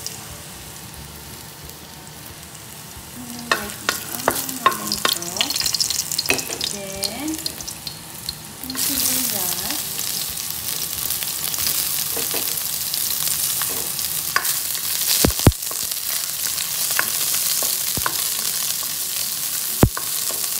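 Minced garlic sizzling softly in hot oil in a nonstick wok, with scattered clicks a few seconds in. About nine seconds in the sizzle jumps suddenly louder as sliced onions go into the oil, and it carries on loud and steady, broken by a few sharp taps and scrapes of the spatula against the pan.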